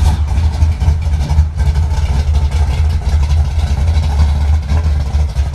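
Chevy pickup truck engine running with a deep, uneven low rumble.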